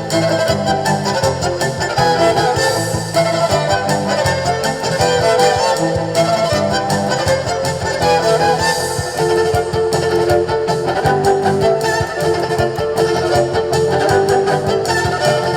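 A live band playing a continuous instrumental passage, with a melody over a steady bass line.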